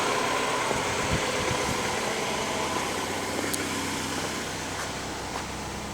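2011 Ford Escape's engine idling steadily, with a fan-like whir, after a fresh oil change. It gradually gets quieter.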